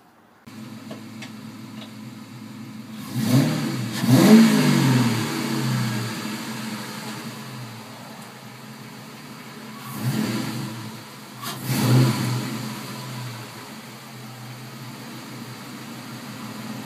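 Ford Mustang GT's V8 engine running, blipped up and back down twice about three seconds in and twice more about ten seconds in, with steady low-speed running in between as the car creeps forward.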